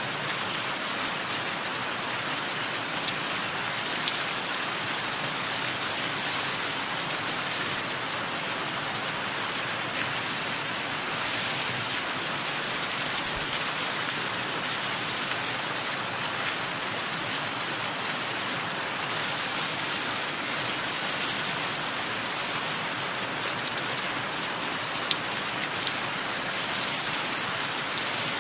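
Steady rain falling, with small birds chirping over it: short high chirps and quick trills every second or two.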